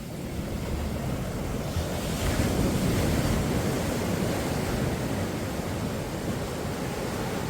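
Surf breaking and washing up the beach, with wind buffeting the microphone; the rushing swells up about two seconds in and holds.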